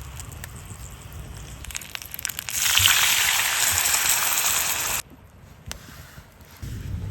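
Wood campfire crackling with scattered pops. About two and a half seconds in, a loud sizzling hiss starts, like food hitting a hot pan over the fire. It lasts about two and a half seconds and cuts off abruptly.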